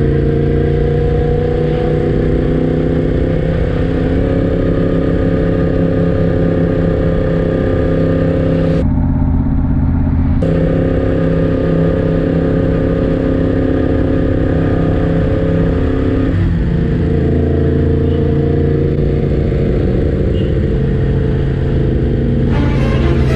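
Yamaha MT-10's crossplane inline-four engine running under way on the road, its pitch easing slowly up and down, with a brief drop in pitch about two-thirds of the way through. A rattle of clicks near the end.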